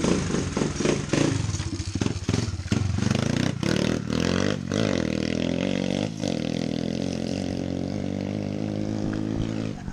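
Pit bike's single-cylinder four-stroke engine running, revved in quick rises and falls over the first few seconds, then running more steadily, with a few sharp clicks in between.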